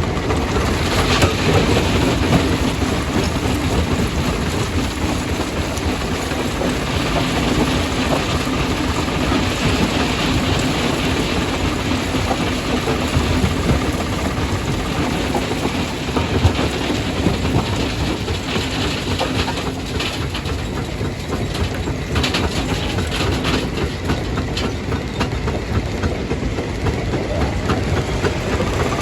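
Stone crusher running under load: a steady low machine hum under continuous clattering and knocking of rock being broken, the clatter thickest in the second half.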